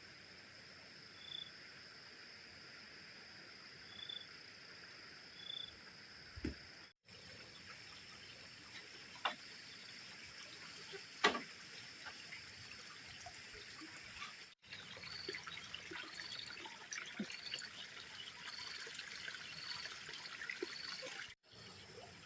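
Water trickling, with a steady high insect hum over it. Short high calls sound three times early on and then repeat about every second and a half in the last third, with a couple of sharp knocks near the middle.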